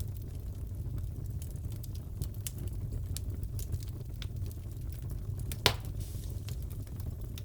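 Fireplace fire crackling: a steady low rumble of burning with scattered sharp crackles and one louder pop about two-thirds of the way through.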